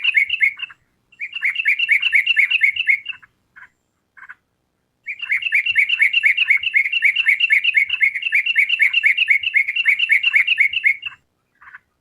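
Yellow-vented bulbul (trucukan) calling in rapid runs of repeated chirps, about eight notes a second. A short run opens, another follows at about one second, then a few single notes, then a long run of about six seconds from the middle to near the end.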